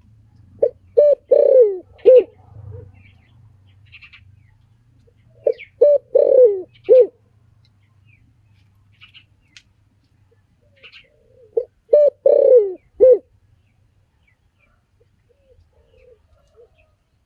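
Spotted dove cooing: three phrases about five and a half seconds apart, each a few short coos with a longer falling note in the middle and a short coo to close. Faint chirps of small birds sound in between.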